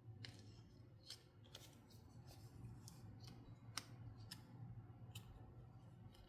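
Faint, scattered clicks and snips from toy packaging being handled and opened, about ten at irregular intervals with the sharpest a little before four seconds in, over a faint steady low hum.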